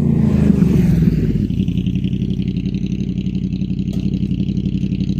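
Honda VFR800's V4 engine through a Black Widow aftermarket exhaust, coming down from a rev and settling about a second and a half in to a steady, evenly pulsing idle.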